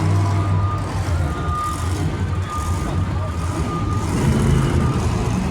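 A heavy vehicle's engine runs with a steady low rumble while a reversing alarm beeps on and off.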